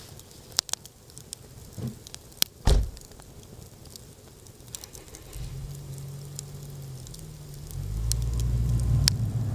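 Wood campfire crackling with sparse sharp pops and one louder knock a little under three seconds in. About halfway through, a low steady drone starts and grows louder near the end.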